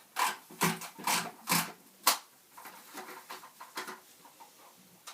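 Plastic clacks and knocks of a Roomba 650's dustbin being pulled out and emptied: about five sharp knocks in the first two seconds, then lighter clicks and rustles.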